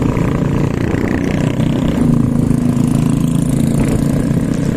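A motor vehicle's engine running steadily, a little louder about two seconds in.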